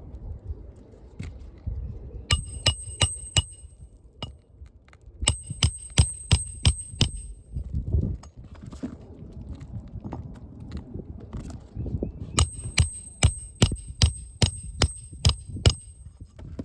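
Hand hammer driving roofing nails into asphalt shingles: three runs of quick, ringing metal-on-metal strikes, several a second, the last run the longest.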